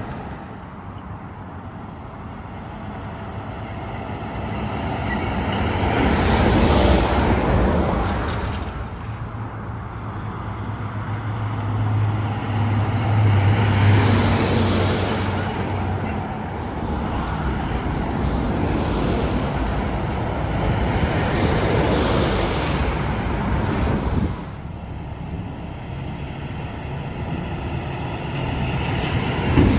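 Highway traffic passing close by: several trucks and cars go past one after another, each pass swelling up and fading away with tyre and engine noise. A heavy truck's low engine drone stands out through the middle of the stretch.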